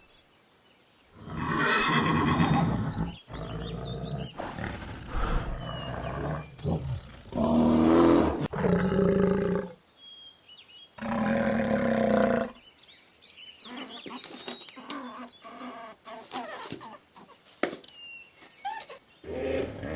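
A series of separate animal calls, each lasting one to two seconds with short pauses between, followed near the end by a stretch of sharp clicks and hiss.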